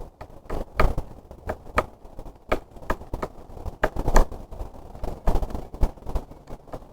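Woodpecker pecking at wood: a run of separate sharp knocks, about two to three a second at an uneven pace, some much louder than others.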